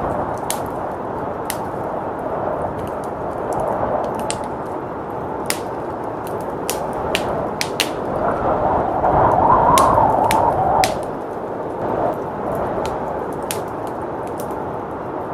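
Wood fire crackling with sharp, irregular pops over a steady blizzard wind; the wind swells into a stronger gust about eight seconds in and falls back near eleven seconds.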